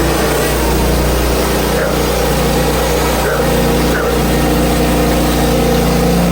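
Portable band sawmill's engine running steadily at an even pitch.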